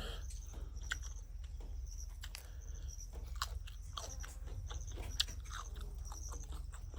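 A person chewing and biting food, with irregular sharp clicks and crunches. Insects chirp steadily in the background.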